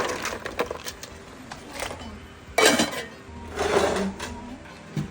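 Dishes and cutlery clinking and knocking during a meal, with a loud clatter about two and a half seconds in and another about a second later.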